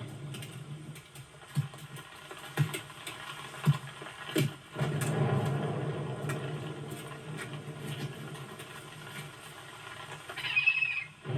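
A steady low rumble with a few scattered sharp knocks and thuds. About ten and a half seconds in comes a shrill bird screech with a bending pitch.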